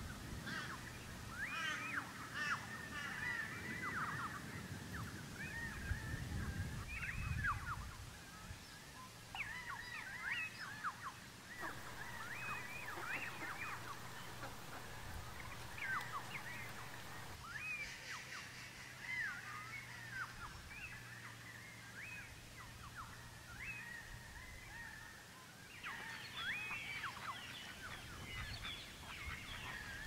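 Birds calling in the forest canopy: many short calls that glide up and down, overlapping and repeated throughout.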